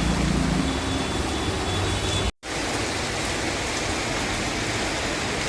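Steady rain falling, an even hiss, broken by a sudden brief dropout a little over two seconds in where the recording cuts.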